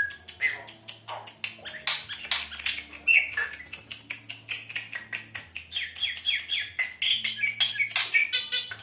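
Black-winged myna (jalak putih) calling: a rapid, unbroken run of short chirps, clicks and squawky notes. From about six seconds in, it strings quick repeated notes into fast series.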